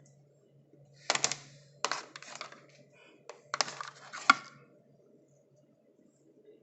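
Hands handling a small Bluetooth speaker and its packaging: a few clusters of clicks, taps and knocks, the loudest a sharp knock in the second half.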